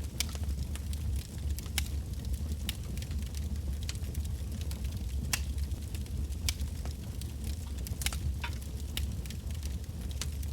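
Wood fire of burning logs crackling, with sharp irregular pops and snaps over a steady low rumble of the flames.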